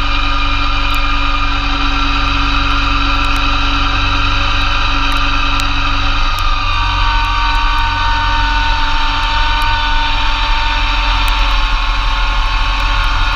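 Massey Ferguson GC2300 compact tractor's diesel engine running steadily under load, driving a PTO snowblower, with a high whine that shifts pitch about halfway through.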